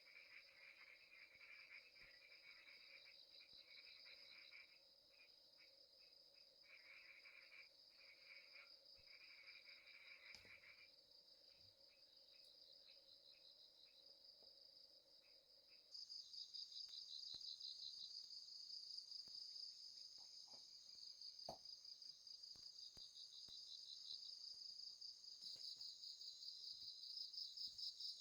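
Chorus of crickets and other insects trilling steadily. A lower pulsing call drops out about ten seconds in, and about sixteen seconds in a louder, closer trill takes over, with a few faint clicks.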